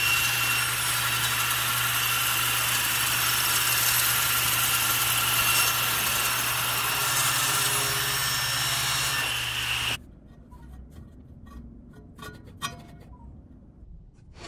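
Table saw running and cutting wood, a steady loud machine noise with a high whine, cut off abruptly about ten seconds in; then a few light clicks and knocks.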